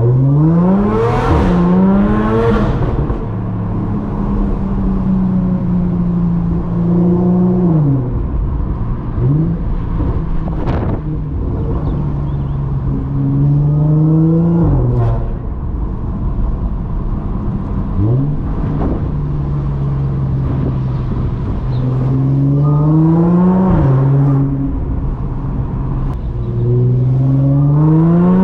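Audi S4 B8.5's supercharged 3.0 V6, breathing through test pipes, AWE resonated downpipes and an AWE Touring cat-back exhaust, pulling through the gears. The engine note climbs and drops at each upshift about five times, with short lifts off the throttle in between.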